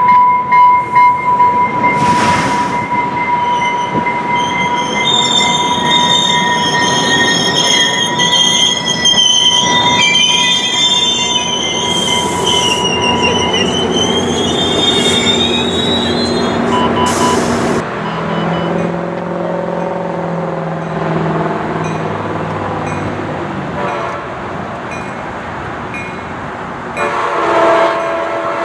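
Trinity Railway Express commuter train moving past, its wheels squealing in high, wavering tones for the first half or so, followed by a lower steady drone. A multi-note train horn sounds near the end.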